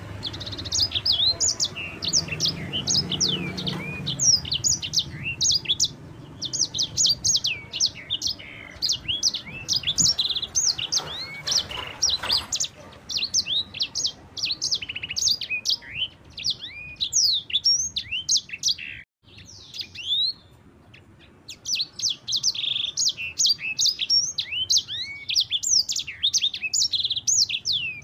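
Sanger, a canary × yellow-fronted canary hybrid songbird, singing a long, clear rolling song of rapid high chirps and sweeping trills. The song breaks off for about two seconds past the middle, then resumes.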